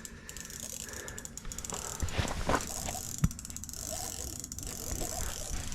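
Fishing reel's drag clicking in quick runs of ratcheting as a hooked lake sturgeon pulls line against it: the drag is set loose enough to slip under the fight. A couple of dull knocks come partway through.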